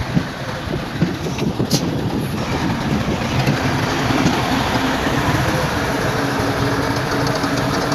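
Bulldozer's diesel engine running with its steel tracks clanking and grinding. There are a few sharp knocks in the first couple of seconds, and a steady engine hum comes up about three seconds in.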